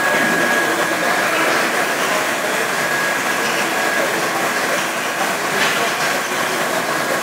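KRE brushless automatic car wash machine running: a steady, loud hissing rush of its jets with a faint thin high whine above it.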